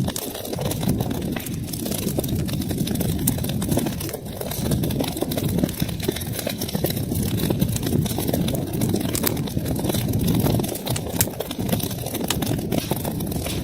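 Wood fire crackling in a fireplace: a steady low rumble of burning, with many small sharp crackles and pops.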